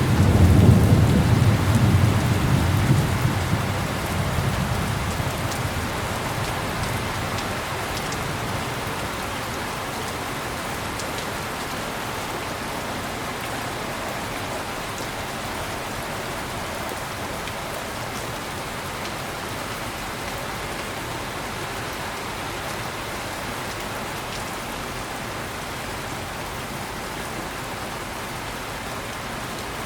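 Heavy rain falling steadily, with a deep roll of thunder at the start that rumbles away and dies out over the first few seconds.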